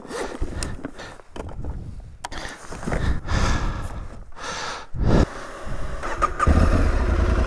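Aprilia Tuareg 660's parallel-twin engine starting about two-thirds of the way in and settling into a steady idle, after several seconds of rustling and handling noises.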